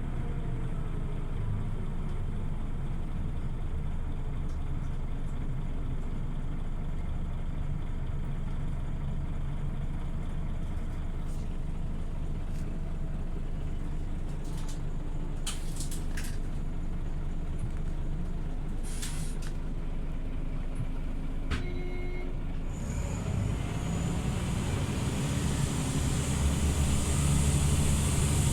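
Scania OmniLink CL94UB city bus heard on board, its engine running steadily, with the pitch falling at the start. Short air hisses come around the middle, typical of the air brakes. Near the end the engine grows louder alongside a high hiss.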